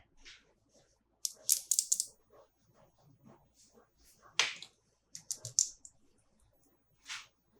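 Plastic toys and their packaging being handled: short clusters of clicks and crinkles with quiet gaps between them.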